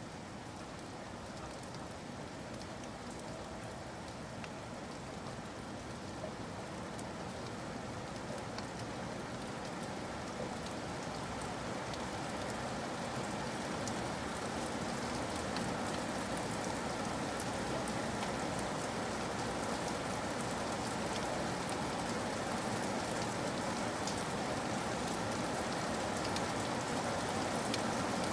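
Steady rain falling, a dense hiss with scattered drop ticks, growing gradually louder.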